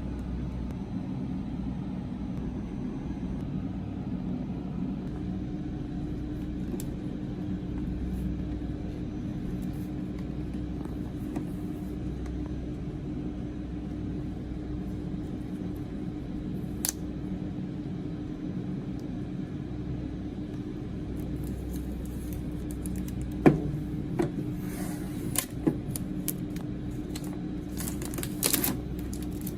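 A steady low hum runs underneath throughout. Over the last third come scattered sharp clicks and short crinkles, typical of a plastic snack package being handled and opened.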